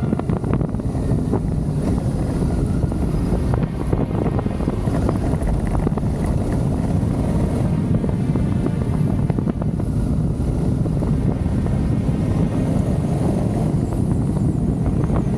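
Adventure motorcycle on the move, its engine running steadily under a heavy rush of wind on the camera microphone, with a low rumble throughout.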